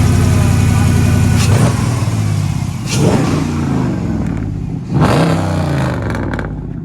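Hemi V8 car with a loud exhaust at a heavy idle, then revved three times, about a second and a half, three and five seconds in, each rev rising sharply and falling back to idle.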